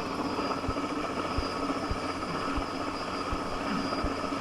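Helicopter running steadily overhead, its turbine giving a constant whine over the rotor noise.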